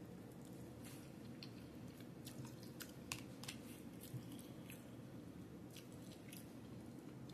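Faint close-up chewing of a mouthful of creamy pasta, with scattered soft wet clicks from the mouth over a low room hum.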